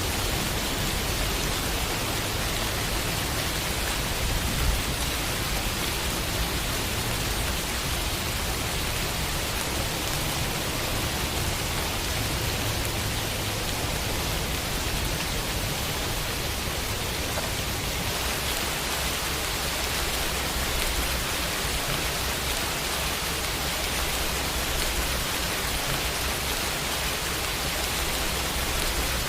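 Rain falling steadily on a window pane, an even hiss of drops with one brief louder tap about five seconds in.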